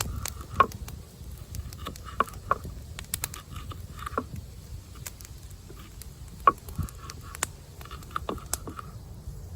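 A knife slicing red pepper and zucchini, making irregular sharp knocks and clicks, with a steady low rumble underneath.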